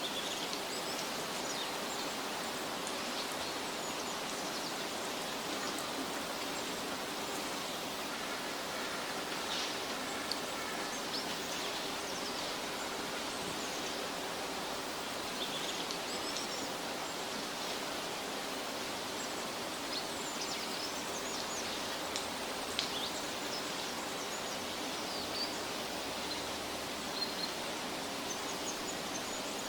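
Forest ambience: a steady outdoor hiss with faint, scattered high bird chirps, and a few soft ticks near the end.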